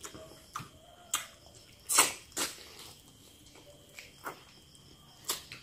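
Close-up eating sounds of a person chewing a mouthful of goat stew and rice: a series of short, wet mouth smacks and clicks, about seven in all, the loudest about two seconds in.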